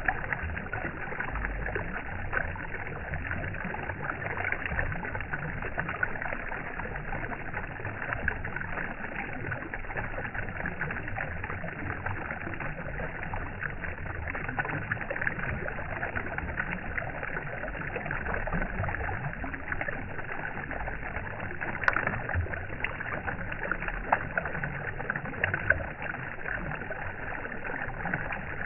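Steady rushing, splashing water, with irregular low rumbles and a single sharp click about 22 seconds in.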